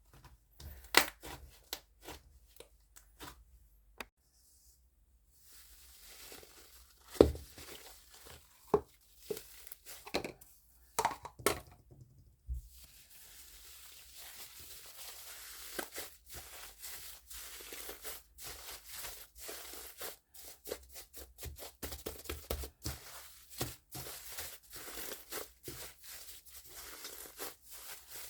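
Foamy, fluffy slime being pressed, squeezed and stretched by hand: sticky snaps and small pops. About halfway through these turn into a steady fine crackle.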